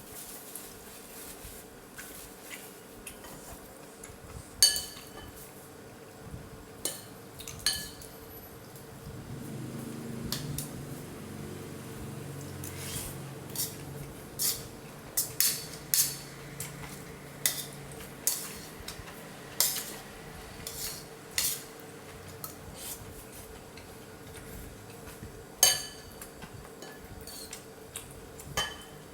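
Cutlery clinking against a soup bowl again and again at irregular intervals while a bowl of soup is eaten, most often in the middle stretch.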